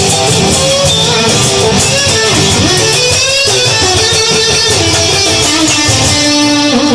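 Instrumental section of a rock song with no vocals: guitar playing over a band with a steady beat.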